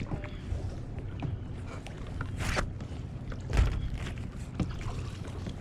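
Kayak paddling: paddle strokes swishing and splashing, with a dull knock about three and a half seconds in, over a steady low hum.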